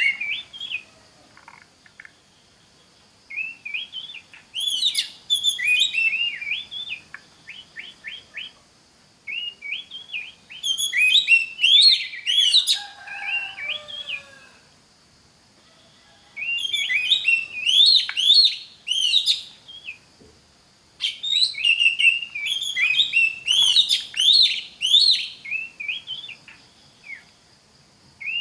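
Oriental magpie-robin singing: four bouts of rapid, varied whistled phrases with quick rising and falling notes, separated by short pauses.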